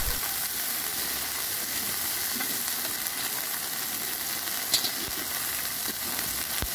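Ground spice paste (ginger and cumin) sizzling steadily in hot oil in a steel kadai as it is stirred, the masala being slowly sautéed. A single sharp click about three-quarters through and a low knock near the end.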